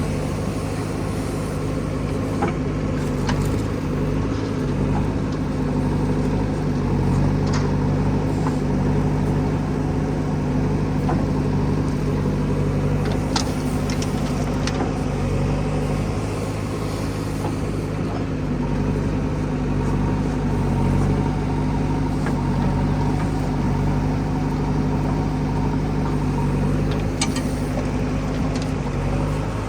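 Heavy diesel engine of mud-loading machinery running steadily at an even speed, with a few short sharp knocks from about a third of the way in.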